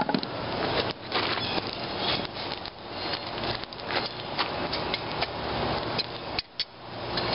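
Coal forge fire running with a steady rushing, crackling noise, with a few scattered metallic clinks and knocks.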